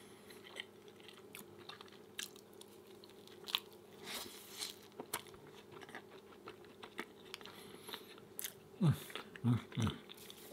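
Close-miked chewing of a mouthful of whole-wheat pancake with peanut butter sauce: scattered soft wet mouth clicks and smacks, with a few louder low mouth sounds about nine to ten seconds in.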